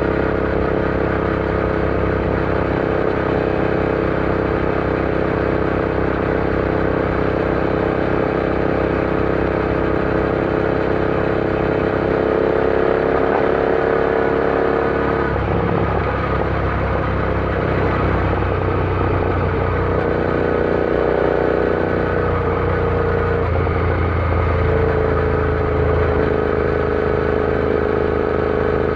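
Royal Enfield Interceptor 650's parallel-twin engine running under way at a steady speed. Its note shifts and roughens about halfway through, then settles to a steady tone again a few seconds before the end.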